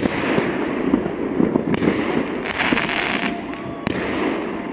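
Fireworks going off: a sharp bang at the start, then continuous crackling and popping, with a denser burst of crackle about two and a half seconds in.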